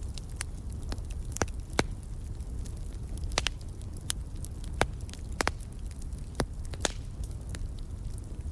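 Wood fire crackling in a fireplace: irregular sharp pops and snaps, some louder than others, over a steady low rumble of the burning fire.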